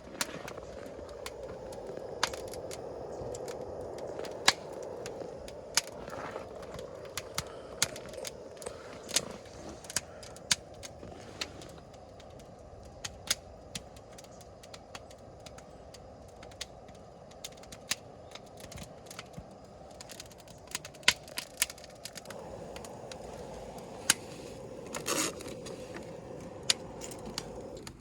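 Wood fire crackling, with irregular sharp pops over a steady low hiss of burning.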